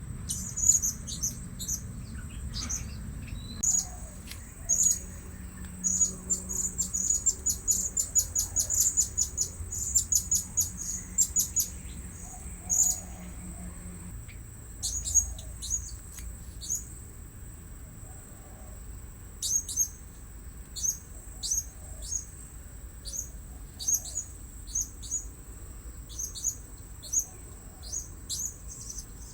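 Blue-crowned hanging parrots calling: many short, very high-pitched chirps, a quick run of them partway through, then spaced out, over a steady high insect whine.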